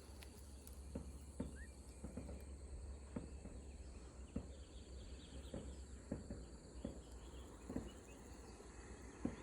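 Faint outdoor ambience: a steady high insect drone, with soft irregular rustles and taps scattered through it.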